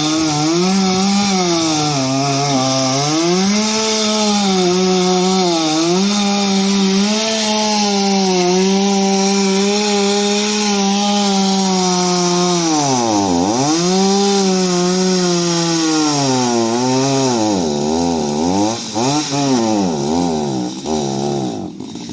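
Two-stroke chainsaw running at high speed and cutting wood. Its pitch sags and recovers again and again as the chain bogs in the cut. Near the end the revs drop off and it winds down.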